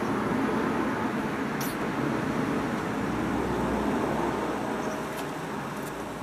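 Hotpoint Ultima WT960 washing machine running after a restart: a steady mechanical noise that slowly fades near the end.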